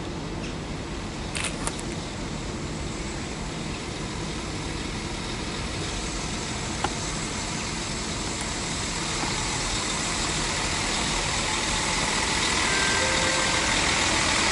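A train at a station platform, its running noise and hiss building steadily louder through the second half as it approaches, with a few sharp clicks early on.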